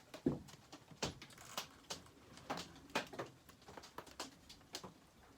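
Irregular small clicks and knocks of chainsaw parts being handled and pushed into place while a McCulloch 850 is reassembled, some with a brief ring.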